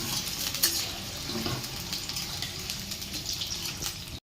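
Potato pieces frying in hot mustard oil: a steady sizzling hiss with fine crackles that cuts off suddenly near the end.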